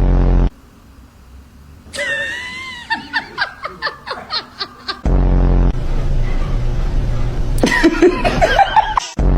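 A person laughing in quick, evenly spaced bursts of about three a second, starting about two seconds in after a short high cry. More laughing follows near the end. Loud, sudden low rumbles start and stop abruptly at the start, halfway through and at the end.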